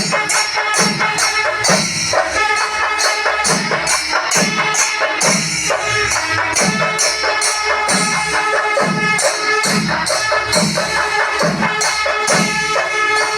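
Chenda melam: a Kerala percussion ensemble of chenda drums with ilathalam hand cymbals, playing a loud, steady, driving rhythm. Sharp cymbal and drum strokes come several times a second over deeper drum beats, with a sustained pitched layer running through.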